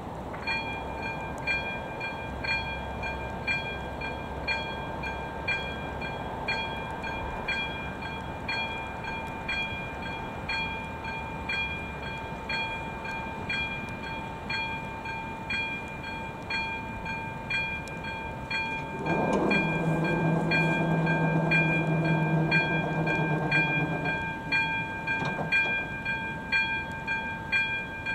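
Level-crossing warning bell (AŽD ZV02 electronic bell) starts about half a second in and rings steadily, pulsing about once a second. About 19 seconds in, the approaching ČD class 460 electric unit sounds its horn for about five seconds over the bell.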